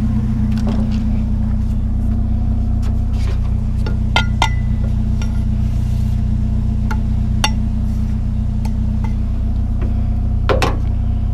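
A vehicle engine idling steadily, with scattered knocks and clinks of scrap items being shifted into place. One knock about four seconds in rings briefly like struck metal, and another cluster of knocks comes near the end.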